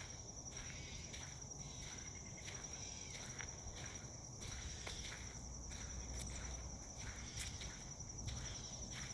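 A steady, high, thin insect trill, a cricket-like drone, runs throughout, over footsteps on a woodland path at about two steps a second.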